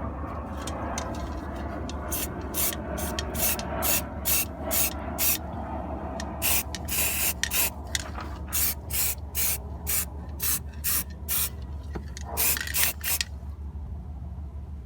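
Aerosol spray-paint can sprayed in short repeated hissing bursts, about two a second, with one longer burst near the middle, over a steady low hum.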